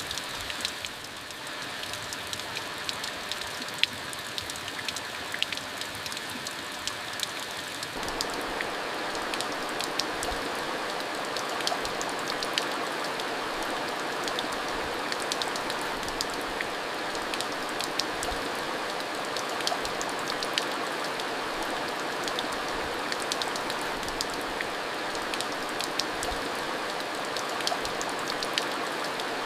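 Steady rainfall, with many individual drops ticking sharply on a surface. About eight seconds in, the rain suddenly becomes heavier and fuller.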